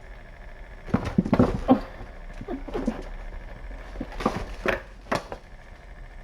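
Kittens playing and scampering: scattered thumps, taps and scuffles in three bursts, the loudest about a second in.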